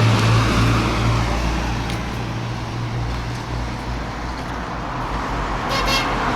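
Street traffic: a steady rumble of car engines and tyres with a low hum throughout, and a brief high-pitched tone near the end.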